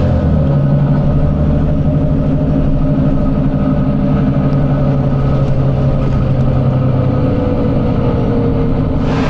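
Volvo B9TL bus's six-cylinder diesel engine running steadily under way, heard from on board. Its pitch drops slowly in the second half as the revs fall, and its deep steady hum fades about seven seconds in. There is a brief hiss near the end.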